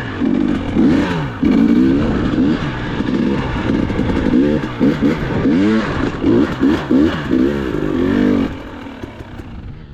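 Dirt bike engine revving up and down over and over as the throttle is worked, then dropping back to a lower, rougher running sound near the end.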